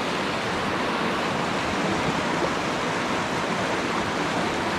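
Steady rushing of river water flowing past, an even, unbroken noise.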